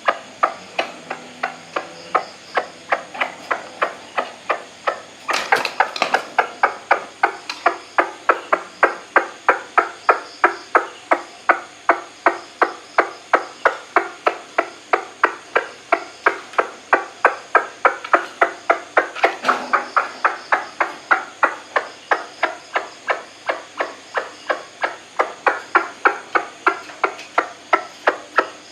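White-breasted waterhen calling: a fast, monotonous series of short "kwak" notes, about three a second, kept up without a break. Two brief knocks sound over the calls, about five seconds in and again about nineteen seconds in.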